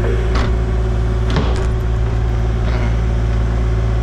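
Excavator's diesel engine running steadily with a low hum. Three short knocks of metal or earth against metal come in the first three seconds, the loudest about a second and a half in.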